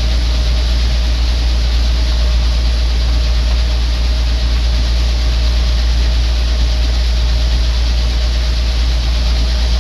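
Gleaner M2 combine running steadily: a loud, even low drone with a faint steady tone above it.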